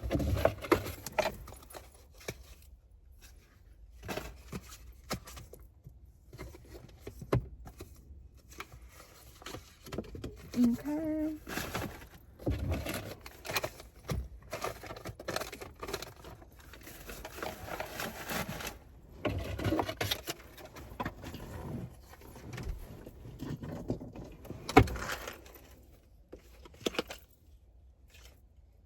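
Small objects being handled: loose coins jingling and clinking, with irregular rustling, scraping and knocks, one sharp knock near the end.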